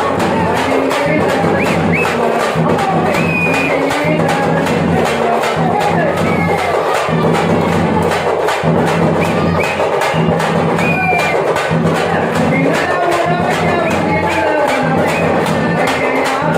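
Tamil folk music: a voice singing a wavering melody over a fast, steady beat of struck frame drums (thappu/parai).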